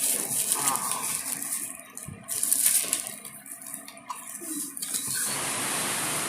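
Cardboard box and packaging being opened and handled: irregular rustling, clicks and light knocks, with a louder knock about two seconds in. A steady hiss sets in near the end.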